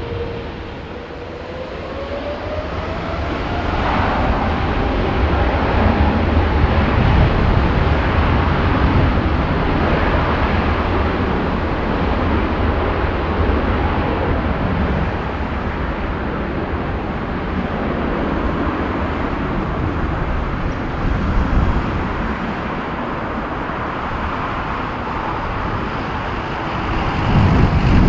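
Jet airliner engines running at high thrust: a whine rising in pitch over the first few seconds as they spool up, then a steady heavy rumble that peaks several seconds in.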